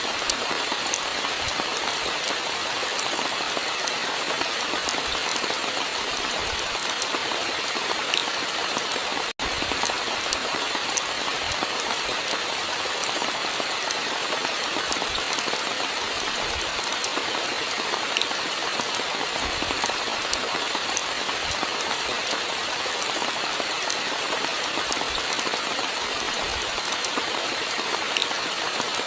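Steady rainfall, an even hiss dotted with many small drop ticks, broken by a split-second gap about nine seconds in.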